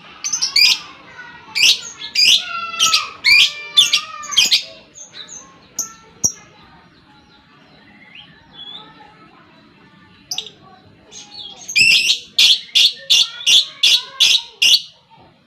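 Lovebird in long 'ngekek' chatter: fast runs of shrill, piercing chirps, one bout at the start, a sparser lull, then a second bout about twelve seconds in. This is the excited, in-form call that keepers play to rouse other lovebirds.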